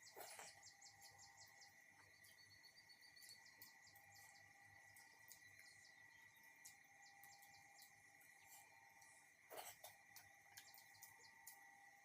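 Near silence: a faint steady high-pitched tone with scattered soft, faint clicks, and two slightly louder brief sounds, one near the start and one near the end.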